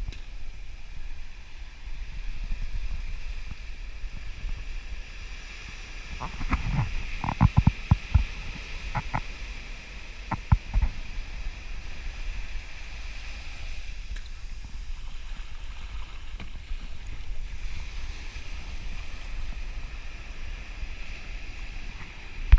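Wind buffeting the microphone over a steady wash of surf, with a cluster of sharp knocks about six to eleven seconds in.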